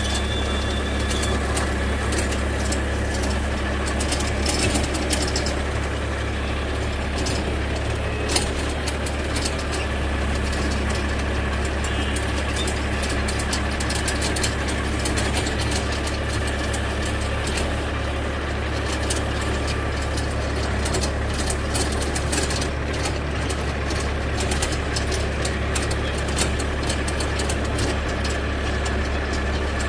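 Force Orchard mini tractor's diesel engine running steadily under the rotavator, with an irregular clatter of sharp clicks and rattles over the engine note, busiest in the second half.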